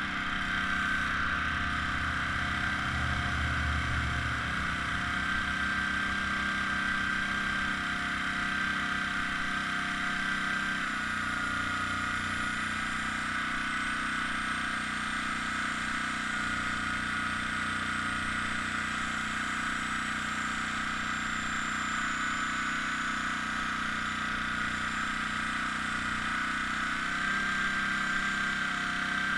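Small air compressor running steadily, feeding the airbrush, with a low hum that shifts in pitch about a third of the way in and again near the end.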